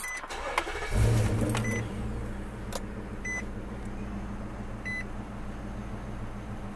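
A car engine starting about a second in and settling into a steady idle, heard from inside the cabin. A dashboard warning chime beeps four times, about every second and a half.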